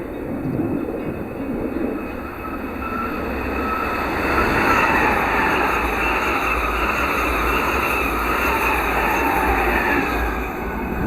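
A train running past on the line: a steady rumble and rush of wheels on rail, with high tones wavering above it, growing louder about four seconds in and holding.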